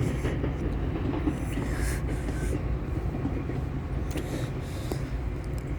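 Metra diesel commuter train running steadily at the platform: a constant low engine sound with a few faint clicks.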